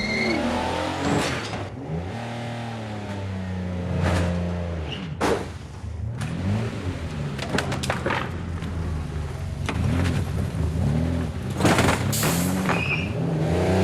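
A car engine revving up and down over and over, broken by several sharp bangs.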